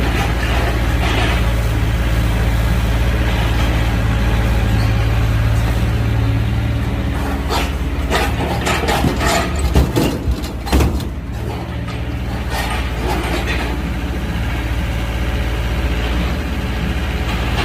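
Excavator's diesel engine running steadily, with a burst of knocks and clanks about eight to eleven seconds in, while the engine hum briefly drops.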